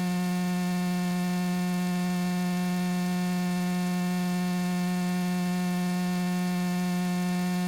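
Steady electrical hum in the aircraft's intercom audio feed: an even buzzing tone that holds unchanged throughout.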